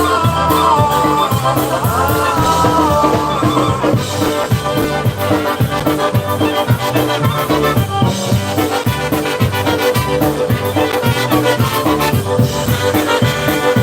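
Live polka band playing an instrumental number, with a steady bouncing beat and an alternating bass line under the melody.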